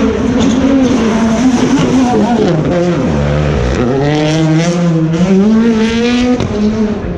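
Rally car engine running hard near the listener: the note drops as the car slows for a corner, then rises steadily as it accelerates away, with a sharp break from a gear change about six seconds in.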